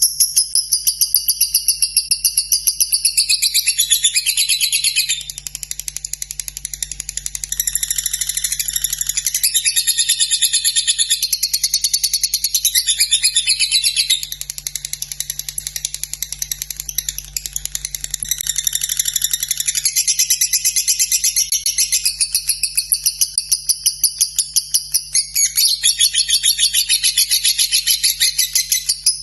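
Lovebird singing a long, unbroken 'ngekek' trill: a very fast run of high-pitched chattering chirps that goes on without a pause and eases slightly now and then.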